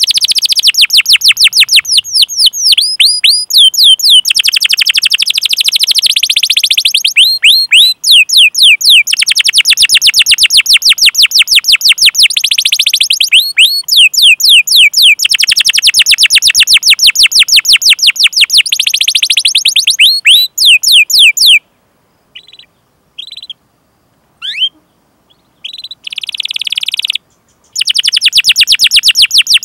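Domestic canary singing in long, fast rolls of rapidly repeated sweeping high notes, mixed with sharp 'cuit cuit' chirps. About 22 s in the rolling stops for a few seconds, leaving only a few single chirps, and then the rolling song starts again.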